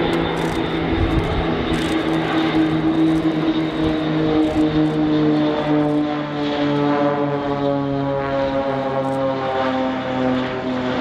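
Propeller aircraft flying past, a steady engine and propeller drone whose pitch slowly falls about halfway through as it passes and draws away.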